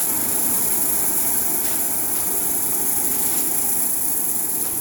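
Stone slinger truck running steadily, its engine driving the high-speed conveyor belt that throws gravel.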